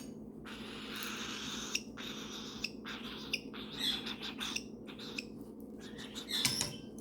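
Pet parrots making repeated raspy, hissing calls in short bursts with brief gaps: the food-begging noise of birds being hand-fed formula. A steady low hum runs underneath.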